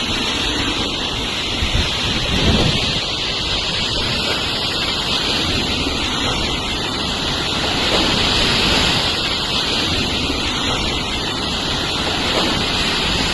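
Typhoon winds and heavy rain: a loud, steady rush of rain hiss, with wind buffeting the microphone.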